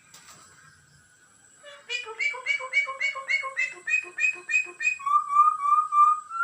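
Common myna chick calling and whistling: a run of about ten quick repeated notes, about three a second, then one long whistle that slowly rises in pitch.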